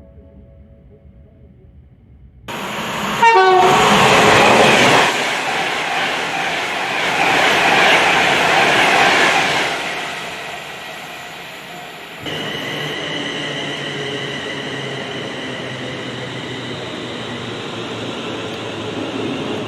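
A train passes at speed, preceded by a short horn blast: a loud rush of wheel and rail noise that swells and fades. About twelve seconds in, a steadier running sound with a high whine starts suddenly.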